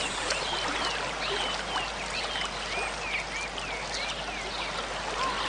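Steady rush of flowing river water, with a small bird chirping over it again and again in short curved notes, about two or three a second.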